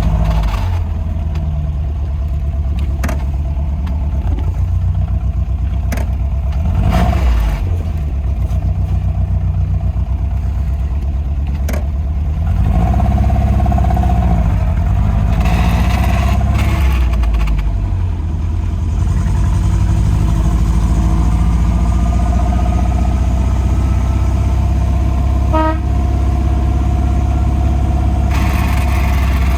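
A 1959 MG MGA's four-cylinder engine running as the car drives, a steady low drone. It grows louder about twelve seconds in, eases off around eighteen seconds, then builds again as it is driven through the gears.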